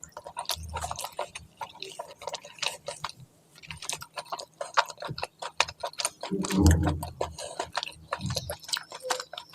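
Close-miked chewing and wet mouth clicks of a person eating curry with rice, with a louder, lower mouth sound about two-thirds of the way through.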